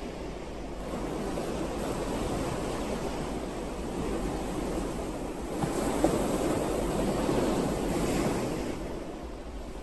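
Ocean waves on a shore: a steady rush of surf that swells from about five seconds in and eases off near the end.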